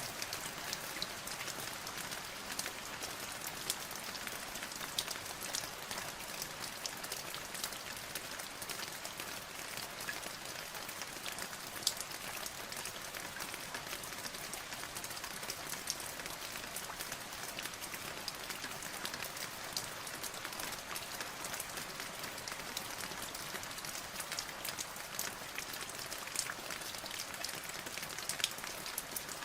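Steady rain falling, with many individual drops pattering on a surface. Scattered sharp drop ticks stand out over the even hiss.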